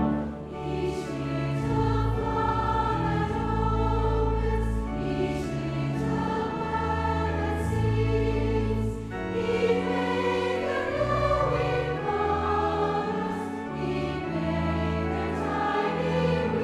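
A choir singing with instrumental accompaniment, in slow sustained chords that change about every second.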